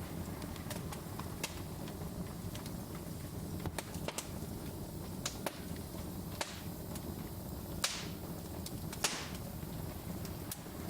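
Wood fire crackling in a fireplace: scattered sharp snaps and pops over a steady low rumble of burning, with two louder pops near the end.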